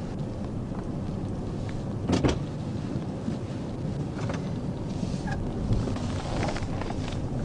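Steady low vehicle rumble, with a short sharp knock about two seconds in and a few faint clicks later.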